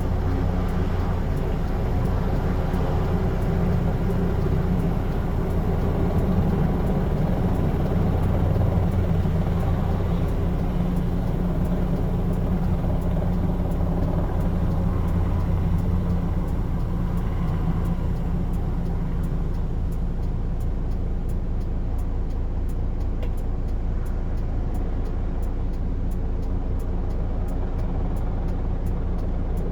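Steady low engine rumble that swells a little around the middle and eases off in the last third.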